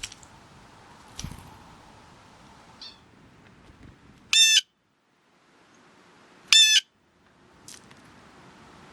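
A bird giving two loud, short calls about two seconds apart.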